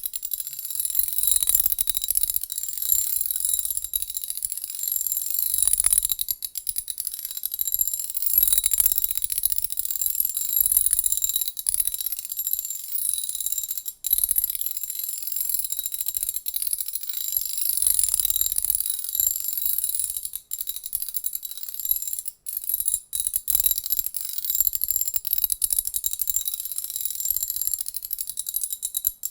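A ratchet clicking rapidly in long runs of fine, crisp clicks, with a few short pauses.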